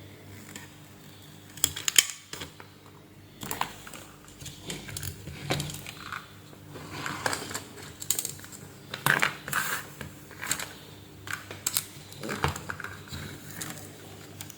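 Irregular light clicks, taps and clatter of small tools and parts being handled on a workbench, with a faint steady hum underneath.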